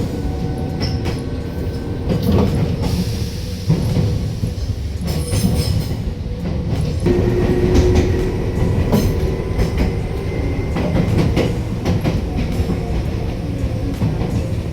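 Electric passenger train running, heard from inside the car: a steady low rumble of wheels on rail with irregular clicks and knocks over the track joints, and a faint steady whine that comes in about halfway through.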